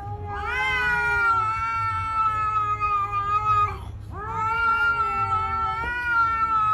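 A cat yowling: two long drawn-out calls, each rising at the start and then held, with a short break between them.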